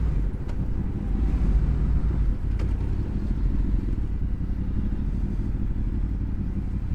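Honda VFR's V4 engine running steadily under way, heard as an even low rumble with road noise.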